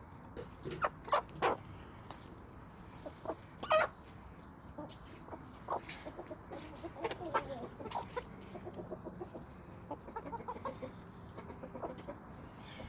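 Domestic chickens clucking, with a few sharp, louder calls in the first four seconds, the loudest near four seconds in, then a run of short, quick clucks through the second half.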